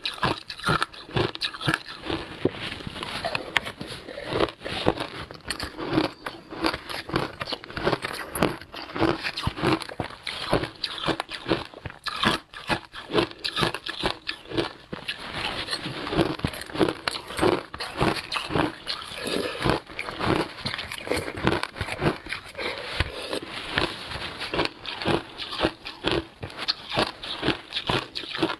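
Frozen passion fruit ice being bitten and chewed close to the microphone: rapid, repeated crunches.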